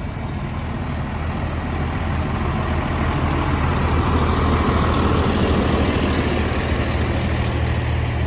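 Heavy semi truck's diesel engine running steadily at idle, growing louder over the first few seconds.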